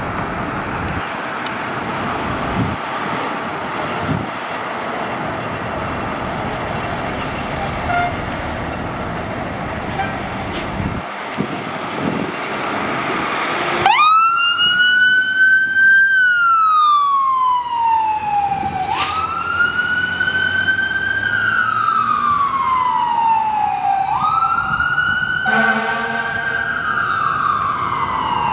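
Fire truck siren wailing: after a stretch of engine and road noise it starts about halfway in, each cycle jumping up quickly in pitch and then falling slowly, about every five seconds. A brief horn-like blast sounds over it near the end.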